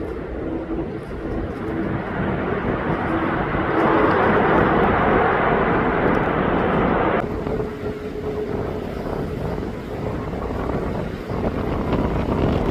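Jet airliner engines running, a rumble with a faint steady whine, swelling louder about four seconds in and changing abruptly about halfway through.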